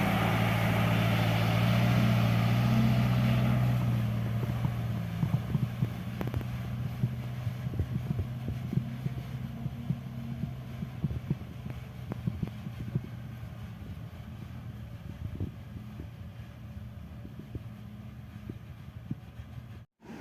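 Heavy sand truck's diesel engine running with a steady low drone, loud for about four seconds and then fading away, with scattered light clicks over it.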